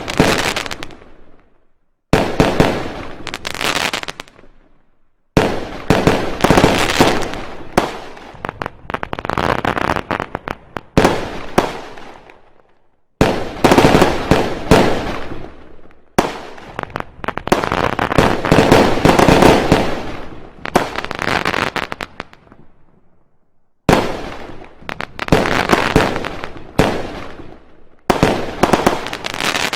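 Fireworks going off in loud volleys of rapid bangs and crackles. Each volley lasts a few seconds before dying away or stopping suddenly, with short silent gaps between them.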